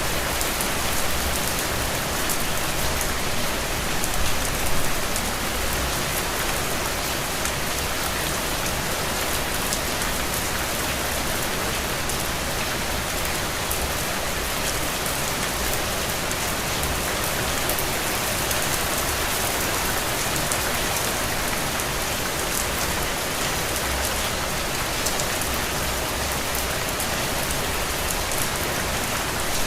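Steady rain falling and pattering on surfaces, an even hiss with fine drop ticks throughout and a few slightly louder swells a few seconds in.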